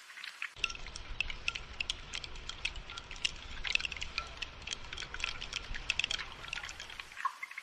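Rain pattering and dripping in a dense, irregular run of small sharp drops. From about half a second in until near the end, a low rumble runs underneath.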